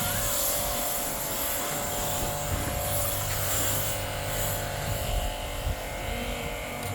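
Small electric car-wash pump running steadily with a buzzing hum and a hiss.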